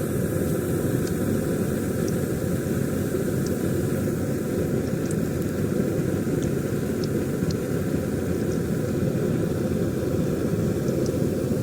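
Pakoras deep-frying in hot oil on the stove: a steady low rushing noise with a few faint, scattered pops and crackles.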